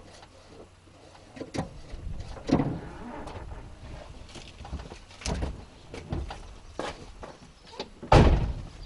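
A series of scattered knocks and clicks, then a louder, deep thump near the end.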